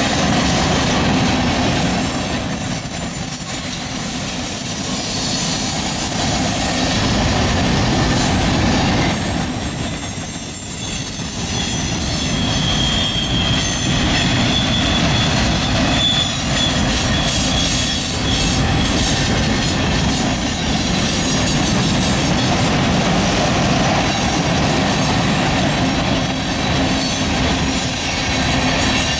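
Freight train of tank cars and covered hoppers rolling past close by: a steady rumble of steel wheels on rail, with thin high-pitched wheel squeals coming and going. A lower squeal joins in for several seconds from about twelve seconds in.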